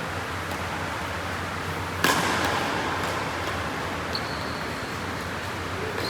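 A single sharp hit about two seconds in, with a short ringing tail, over a steady background hiss; a faint high steady tone comes in near the end.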